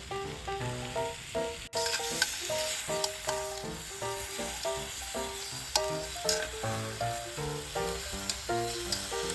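Food sizzling and crackling in a frying pan under background music that plays a melody of short notes. The sizzle comes in after a sudden cut about two seconds in.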